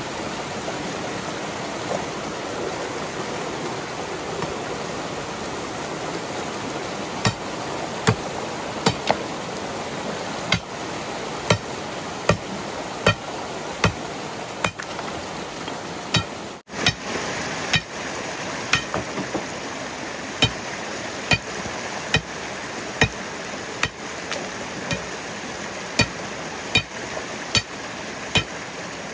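Steady rush of running water. From about a quarter of the way in, a regular run of sharp knocks joins it, a little more than one a second, like a tool striking wood or bamboo.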